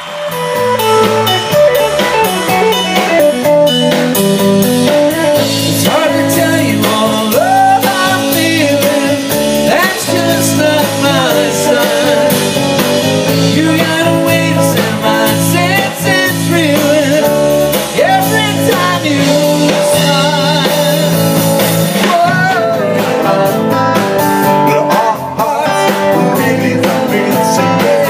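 A live band of electric guitar, bass guitar and drum kit playing, coming in abruptly at the start.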